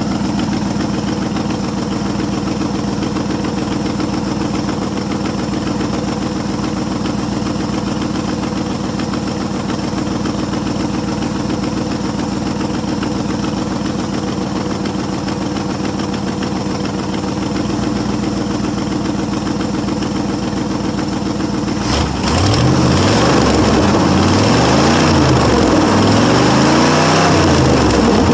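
International 345 V8 in a 1973 International 1210 pickup, idling steadily on its two-barrel carburetor. Near the end it gets louder and the engine speed rises and falls about three times as it is revved.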